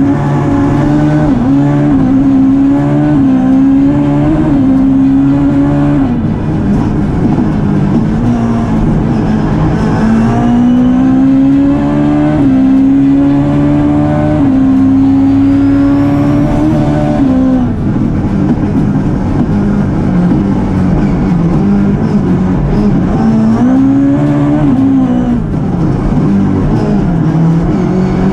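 Ford Fiesta rally car's engine accelerating hard through the gears. The pitch climbs and drops back at each upshift, with the driver lifting off briefly about six seconds in and again near eighteen seconds.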